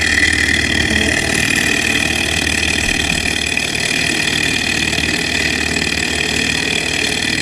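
Small alcohol-fired Stirling hot-air engine running steadily and driving a small generator that lights a lamp: a fast, even mechanical chatter with a steady high whine over it.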